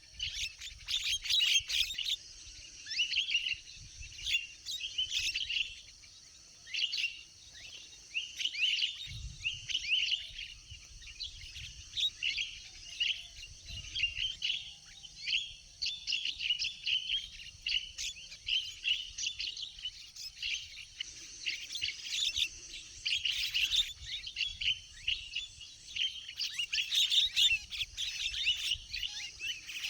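Javan mynas calling, a dense, continuous chatter of short chirps and squawks.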